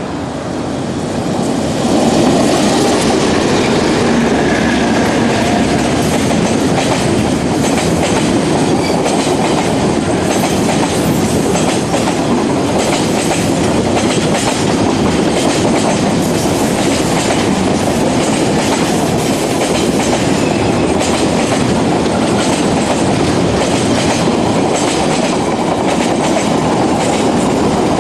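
Diesel-hauled container freight train passing close by: the noise swells over the first two seconds as the locomotive arrives, then holds as a long steady rumble of the wagons with wheels clicking over the rail joints.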